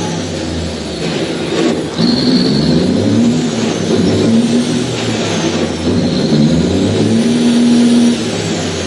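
Semi-truck diesel engine revving hard through a burnout, its pitch climbing again and again with short breaks between, as the driver bangs through the gears of the manual gearbox. It holds high revs for about a second near the end, then drops.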